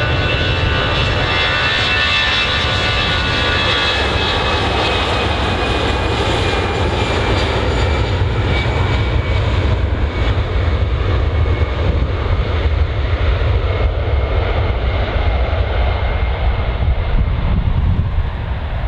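Jet airliner's engines, a loud steady rumble with a thin high whine that slowly falls in pitch and fades as the aircraft moves away.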